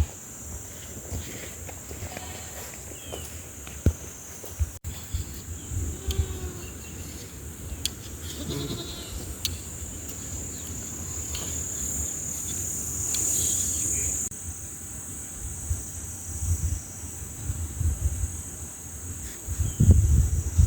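Goats and sheep of a grazing flock bleating faintly now and then, over a steady high drone of insects. There are low thuds near the end.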